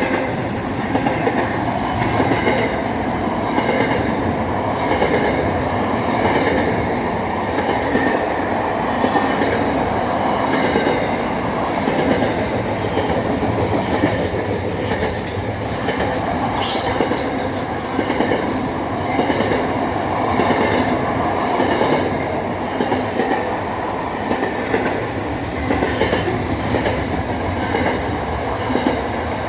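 A train running on rails: a steady rumble with a regular clickety-clack of wheels over rail joints, and a brief high hiss about seventeen seconds in.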